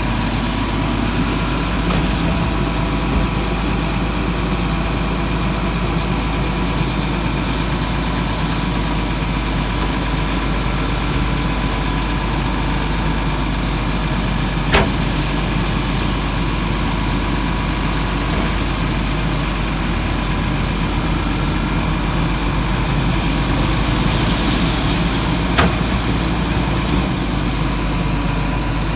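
Heavy diesel engine of earthmoving machinery running steadily, with two short sharp knocks, one about halfway through and one near the end.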